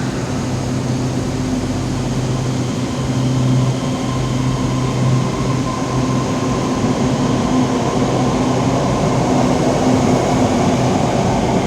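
Electric metro train pulling out of a station: steady low electric traction hum, then running noise that grows louder near the end as it picks up speed.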